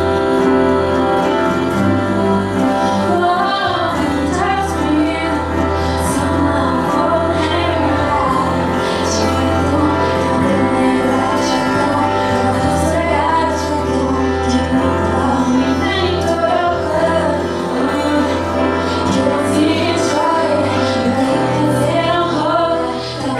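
A pop song performed live: a woman singing over instrumental backing with a steady bass line and sustained chords.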